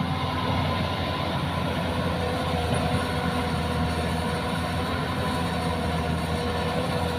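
Heavy-equipment diesel engine running steadily, a constant low drone with a steady whine above it.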